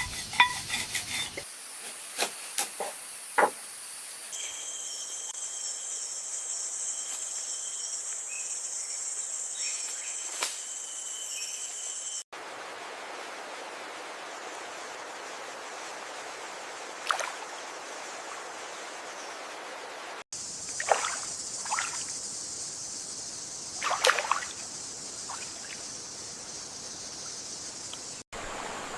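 Running, trickling water with a steady high-pitched hum over it, broken by abrupt cuts into differing takes of outdoor ambience, with a few brief splashes or knocks.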